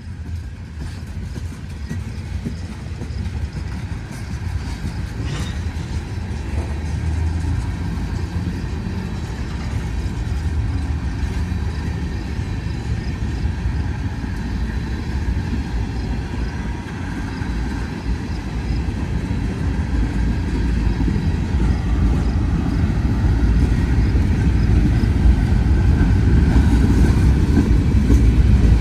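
Freight train rolling past close by: a low, steady rumble of wheels and cars that grows steadily louder.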